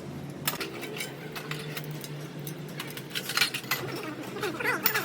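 Scattered metal clinks and knocks from workshop tools and parts over a low steady hum, with the loudest cluster about three and a half seconds in.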